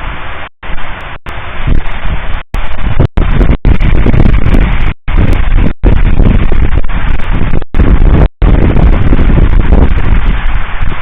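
Fireworks display: a dense, continuous barrage of booming bursts, so loud that the recording overloads into a distorted rumble. The sound cuts out completely for a split second about a dozen times.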